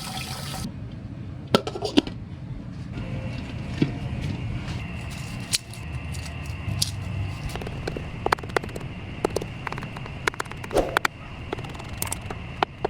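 Water bubbling and sloshing in a kitchen, with scattered light clicks and taps, one to several a second.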